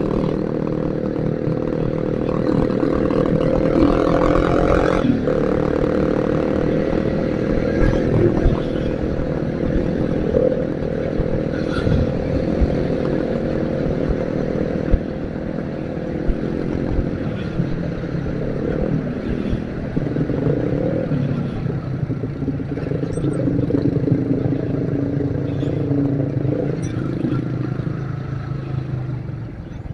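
Yamaha Vixion motorcycle engine running steadily while riding, its note shifting about five seconds in. The engine is not yet fully warmed up, which the rider says makes it stall at times.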